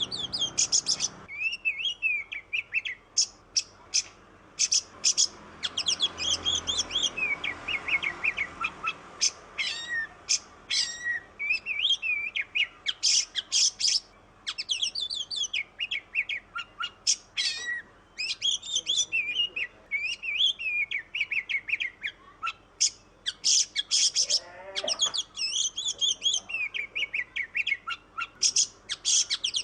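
Oriental magpie-robin (kacer) singing: a long, varied run of high whistled phrases and quick chirping notes, with short pauses between them.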